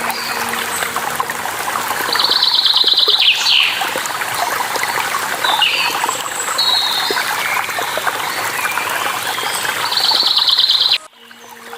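Steady rush of running water with songbirds chirping over it, including a rapid trilling call twice. Just before the end the sound drops off abruptly to a quieter level.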